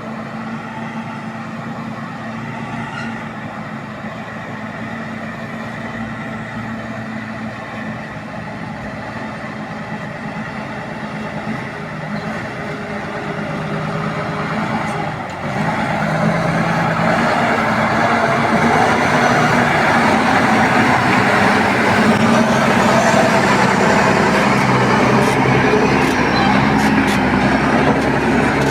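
Truck engine running, growing louder about halfway through as it revs and its pitch shifts in steps.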